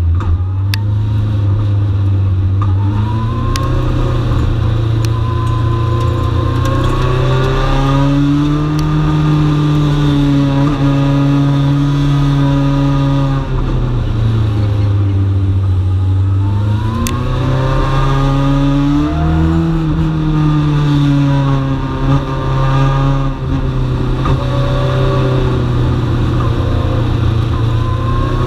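Dwarf race car's motorcycle engine heard onboard at racing speed: the revs climb over the first several seconds and hold high, ease off about halfway through, then climb and hold again.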